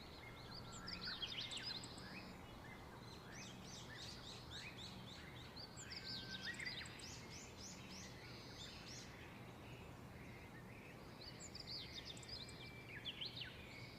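Faint birdsong: quick, high chirps from small birds in three spells, over a low steady background hum.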